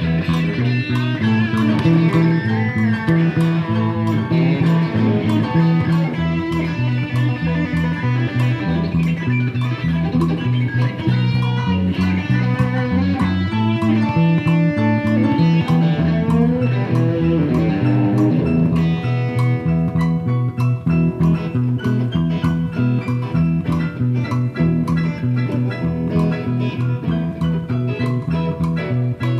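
Live band playing an instrumental break: electric guitar lead over a walking bass line and a steady beat.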